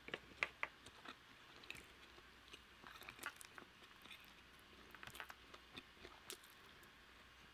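Faint, close-miked eating sounds: soft clicks and smacks of chewing, with a spoon scooping mashed potatoes and gravy from a plastic bowl.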